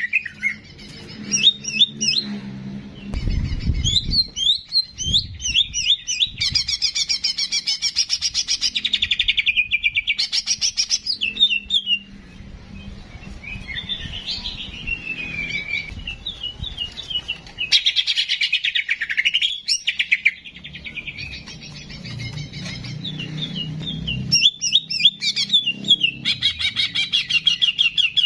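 Songbird singing a fast, continuous run of chirps, trills and short whistles: the 'ki jenggot' bird tutoring song used to train caged songbirds. There are a few low thumps about three to five seconds in.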